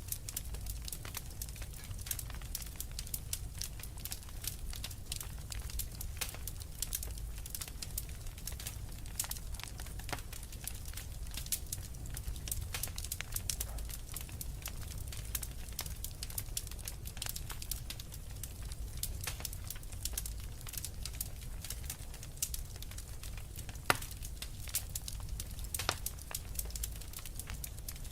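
Wood fire burning in a fireplace: a steady low rumble of the flames with frequent small crackles and snaps from the logs, and one sharper pop near the end.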